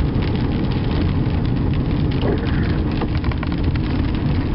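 A car being driven, heard from inside the cabin: a steady low rumble of engine and tyres on the road, with scattered light ticks over it.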